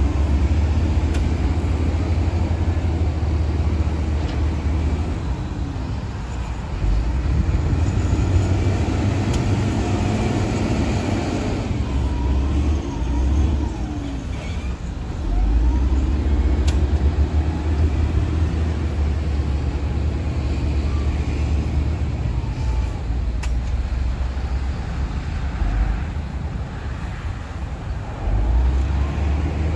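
Shantui DH17-C2 crawler bulldozer's diesel engine working under load, a low heavy rumble that swells and eases several times as it pushes sand.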